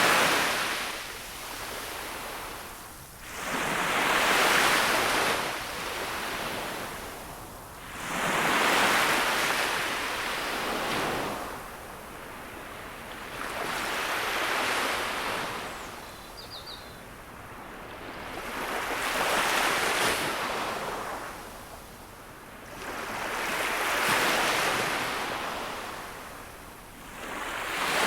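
Gentle sea waves breaking on a beach. Each wave swells, breaks and washes back, one about every four to five seconds.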